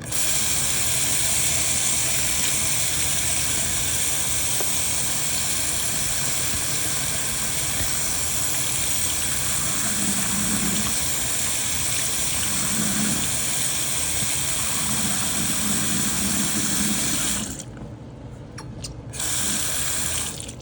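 Kitchen sink faucet running steadily as the scrubbed door-panel lights are rinsed under it. It shuts off abruptly near the end, then runs again briefly for about a second and a half.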